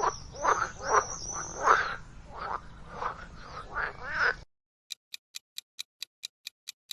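Frogs croaking, a run of repeated calls every fraction of a second, which stops about two-thirds of the way through. Then a fast, even ticking, about four ticks a second, begins.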